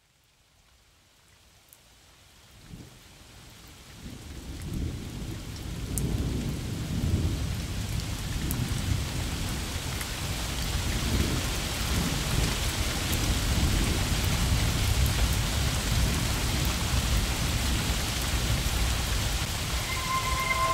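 Rain with rolling thunder, fading in from silence over the first few seconds and then holding steady.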